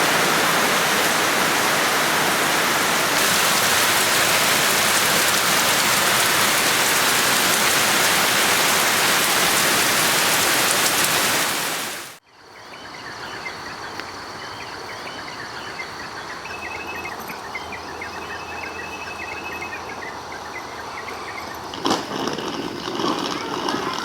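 A loud, even rushing noise that cuts off suddenly about halfway, followed by a much quieter outdoor ambience with a steady high-pitched drone and rapid high chirping calls.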